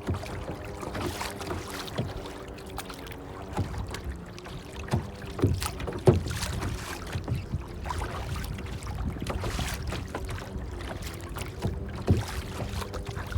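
Water lapping and splashing, with irregular knocks and clicks scattered through it.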